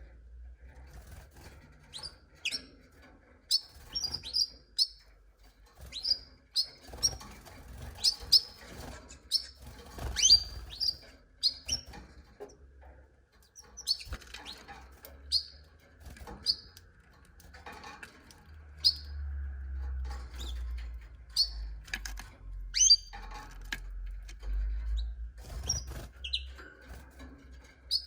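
Canaries giving short, high chirps one at a time at irregular intervals, not a continuous song. A low rumble runs underneath for several seconds in the second half.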